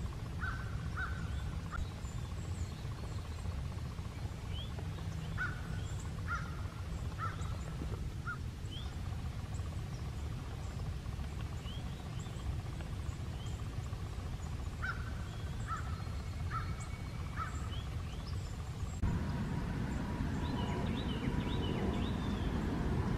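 Woodland birds calling: three series of three or four short, repeated mid-pitched calls, with scattered high chirps over a steady low rumble. About 19 s in, the background noise grows louder.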